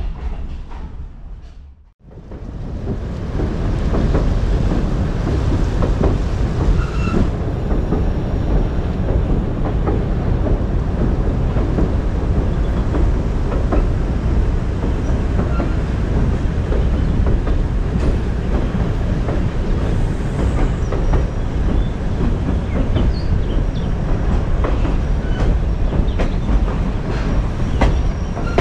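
Background music fades out over the first two seconds. A vintage passenger train then runs steadily: a loud, continuous rumble of its wheels on the rails, with scattered clicks and clacks.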